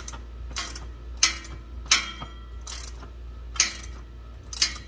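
Metal-on-metal clinks of a ratchet turning a 10 mm deep-well socket on an extension, loosening a bolt: about six sharp, ringing clicks, roughly one every three-quarters of a second.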